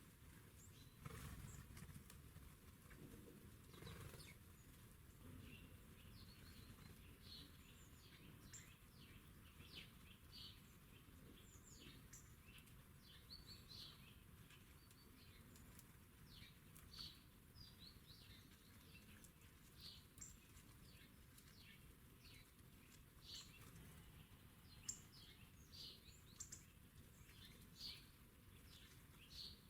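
Small birds chirping faintly, many short high calls scattered throughout, with a couple of soft knocks in the first few seconds.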